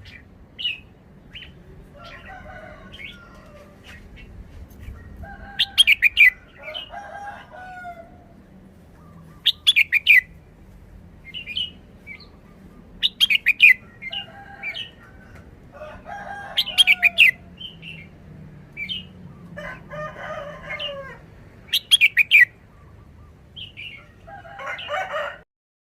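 Red-whiskered bulbul singing short, loud, high phrases, five of them about four seconds apart, with softer chattering calls in between.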